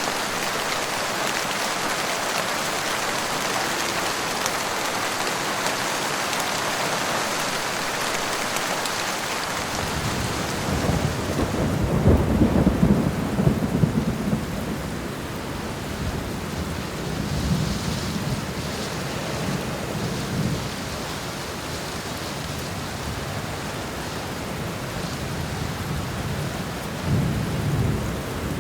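Steady heavy rain, then thunder rumbling in about ten seconds in, loudest a few seconds later, and rolling on in lower swells with another near the end. The rain hiss is softer once the thunder starts.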